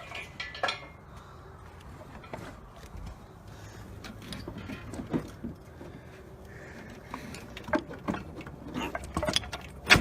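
Scattered metal clinks and knocks as a rebuilt Mazda rotary engine is shifted and lined up with its transmission in the engine bay, with the loudest knock near the end.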